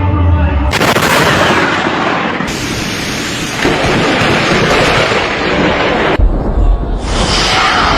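Loud thunder from close lightning strikes: a sudden crack under a second in, then continued crashing and rumbling, with abrupt shifts in the sound a few times.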